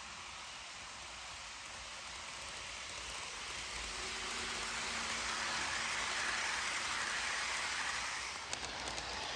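A passing train: a rushing noise of wheels on rail that builds over several seconds, with a faint steady hum, then a series of sharp clicks near the end.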